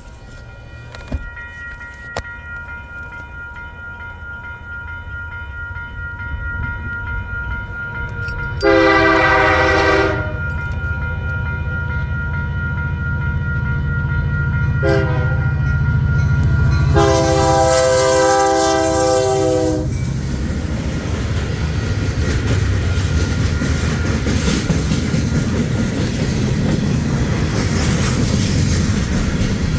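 Union Pacific SD70M diesel locomotive approaching under a rising engine rumble and sounding its horn: a long blast, a short one, then a long one. After that the freight cars roll past with a steady roar and clatter of wheels on the rails.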